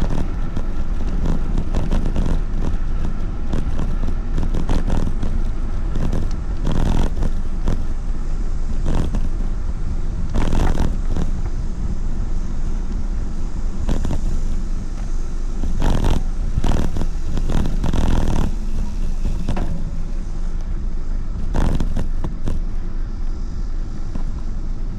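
Loud wind buffeting on the microphone while riding, a steady low rumble broken by a few short rattles and knocks.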